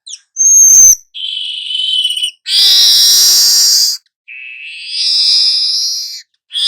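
Songbird song in short separate phrases: a brief high whistle, then buzzy wheezing trills and a harsh rasping chatter, each phrase breaking off abruptly.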